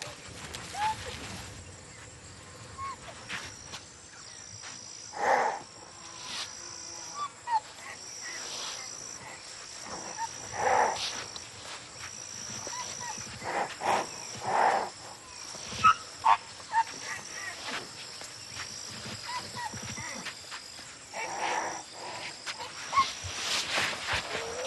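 A young rhinoceros calf giving repeated squealing distress calls, several loud separate cries spread through the stretch. Insects trill steadily and high behind them.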